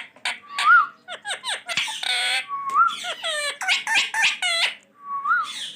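Green ringneck parakeet whistling and chattering: a short rising-and-falling whistle three times, quick downward chirps, and a harsh rasping screech about two seconds in.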